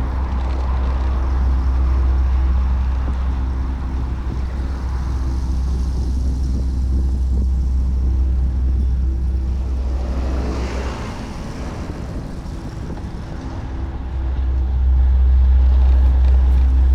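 Wind rumbling on the microphone of a bicycle being ridden, with road traffic around it; a vehicle goes by about ten seconds in, and the wind rumble drops away for a few seconds after it.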